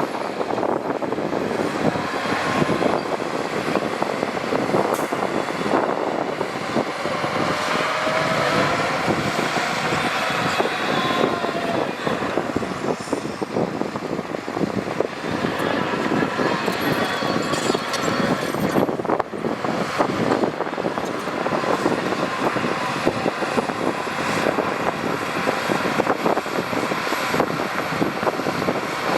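Heavy earthmoving machinery working: diesel engines running under load with a continuous fast clatter, as dump trucks and a bulldozer move soil.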